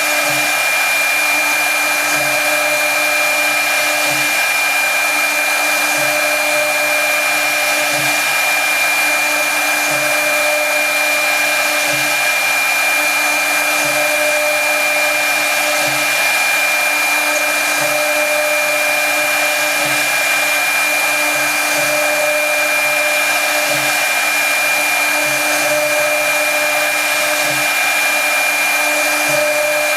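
Brushless spindle of a CNC router running at a steady, high-pitched whine while machining wood, with a lower sound that comes and goes about every two seconds as the machine works.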